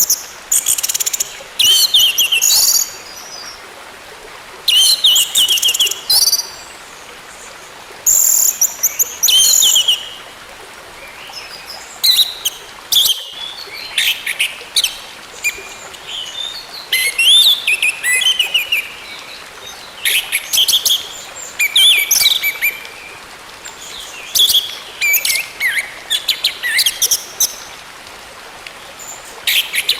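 Orange-headed thrush singing: quick, high, whistled phrases full of gliding notes, repeated every second or two with short pauses between, over a steady background hiss.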